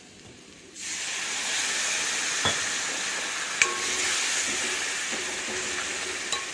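Onion-tomato masala sizzling in a hot pan with a loud, steady hiss that starts suddenly about a second in, as a little water is added and comes to the boil. A few light clicks sound over it.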